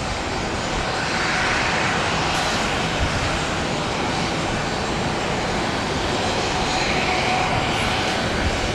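Jet engines of an airliner on approach, a steady engine noise that swells slightly as the aircraft passes.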